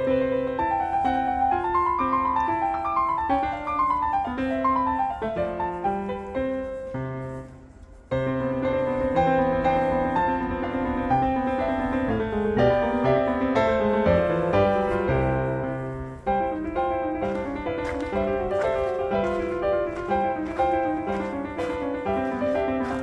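Background piano music, a melody of clear notes over a steady accompaniment, fading briefly about a third of the way in and then picking up again.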